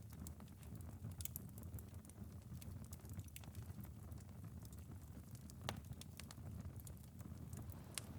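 Wood fire in a fireplace crackling with scattered sharp pops, one louder pop a little after midway, mixed with rain dripping on a window, over a low steady rumble.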